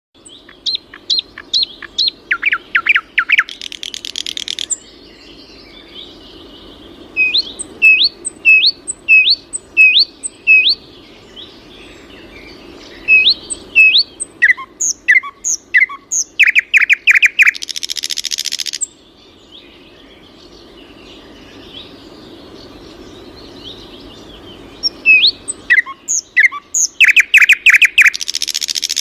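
A songbird in a forest singing the same song phrase three times, roughly every ten seconds: a run of clear chirping notes, then a fast trill and a short buzzy ending. A faint steady low hum lies underneath.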